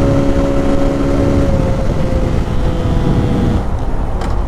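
Motorcycle at highway speed: heavy wind rush on the microphone over a steady engine drone. The engine's steady note thins out about a second and a half in and fades away near the end.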